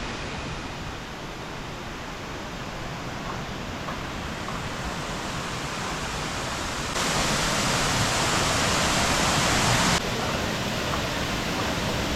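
Waterfall: a steady rush of falling water. It jumps louder and brighter abruptly about seven seconds in, then drops back just as suddenly three seconds later.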